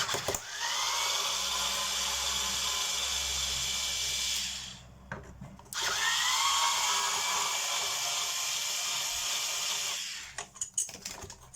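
Cordless drill-driver running twice, about four seconds each with a short pause between, its whine rising as it spins up each time, backing out screws.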